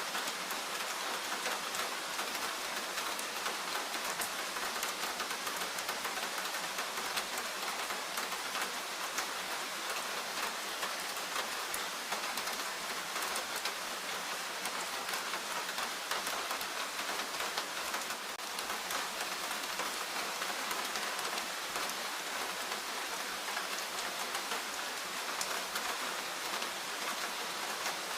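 Steady rain falling in a forest, an even hiss of rainfall flecked with many small individual drop impacts.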